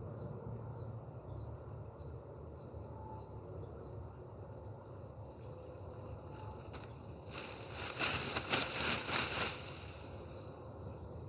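Crickets chirping steadily in a high, unbroken chorus. About seven seconds in, a burst of rustling noise lasting about two seconds rises over it and is the loudest sound.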